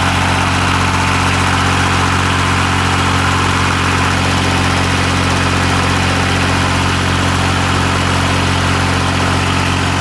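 A 1988 Yanmar 336D tractor's three-cylinder diesel engine running steadily at raised throttle, back running after sitting six years.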